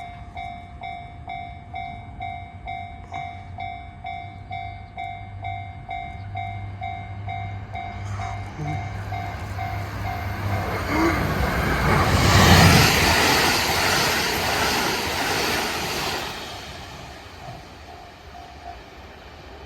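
Japanese level-crossing bell ringing about twice a second while a JR Central KiHa 85 diesel limited-express train approaches. The train then passes the crossing at speed, loudest about twelve seconds in, and fades out. The crossing bell is faintly heard again for a few strokes near the end.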